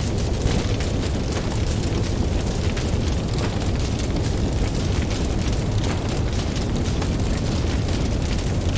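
Campfire crackling with frequent small pops over a steady deep rumble.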